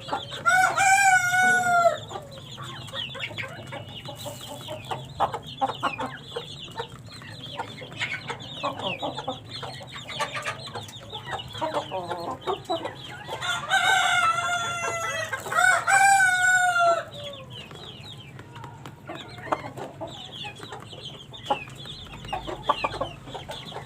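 Young Aseel chickens clucking, with three drawn-out crows: one near the start and two in a row about two-thirds through.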